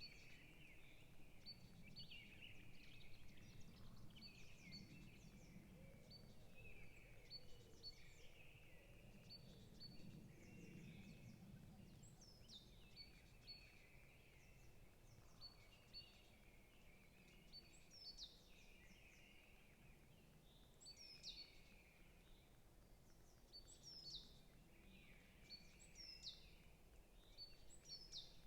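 Several songbirds chirping and calling, faint. The calls are short high notes repeated in quick runs, mixed with sharp downward-sweeping calls that come more often in the second half, over a faint low rumble of background noise.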